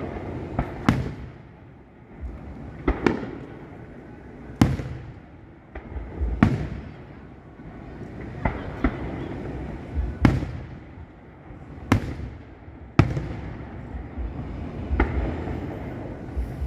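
Fireworks show: about a dozen sharp bangs of aerial shells bursting, one every second or two, each trailing off in an echo over a low rumble.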